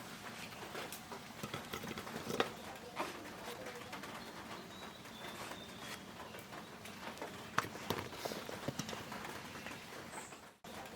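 Doves cooing faintly behind scattered irregular clicks and light knocks. The sound drops out abruptly for a moment near the end.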